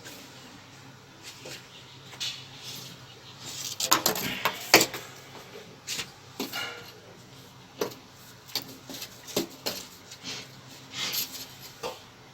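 Irregular clinks, taps and knocks of hard objects being handled, the loudest cluster about four to five seconds in.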